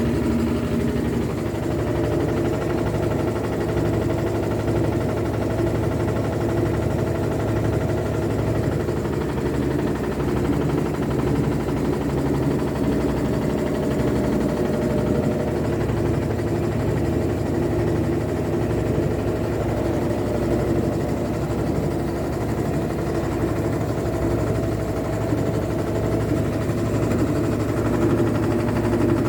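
Electrolux LT12F top-load washing machine running with a steady, unchanging mechanical hum: the annoying noise the machine is making.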